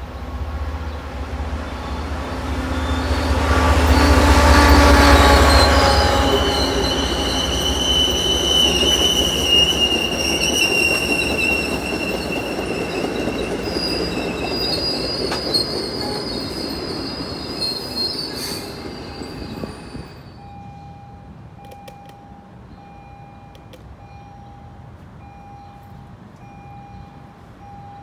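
MBTA commuter train led by an HSP46 diesel locomotive passing close by. The locomotive's engine rumble swells and peaks about five seconds in, then the coaches' wheels squeal steadily on the rails. After a sudden drop about twenty seconds in, a faint electronic tone repeats about once a second.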